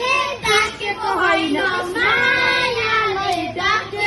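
A child singing, with a long held note about two seconds in.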